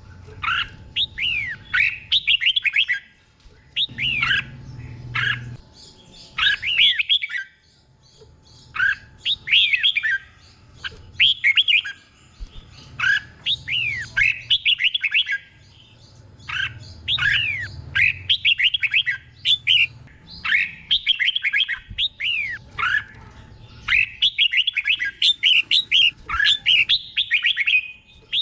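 Red-whiskered bulbul singing: quick phrases of slurred, whistled notes, one after another with short pauses between them.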